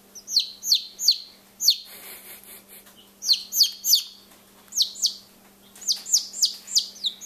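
Bantam chicks peeping loudly: a string of high calls, each sliding down in pitch, coming in quick runs of two to five with short pauses between.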